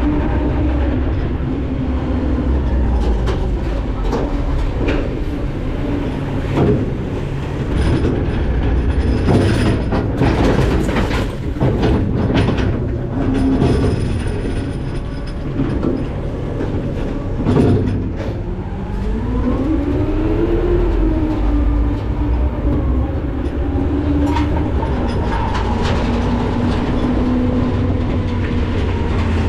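McNeilus ZR rear-loader garbage truck running, its hydraulic pump whining as the pitch rises and falls, with scattered metal clanks and bangs, most of them in the middle of the stretch.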